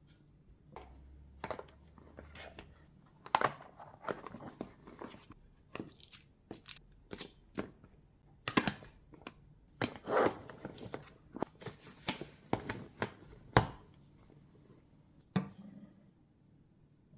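Irregular clicks, taps and crinkling as food is packed into a lunchbox, with one last knock near the end.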